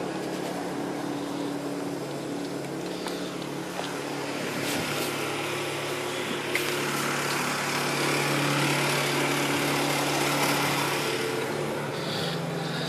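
An engine running steadily with a constant hum, growing somewhat louder from about five seconds in.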